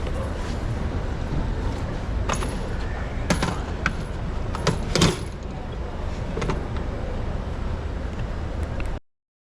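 City street ambience heard from a moving bicycle: a steady low rumble with a handful of short, sharp clicks and clinks in the middle, cutting off abruptly about nine seconds in.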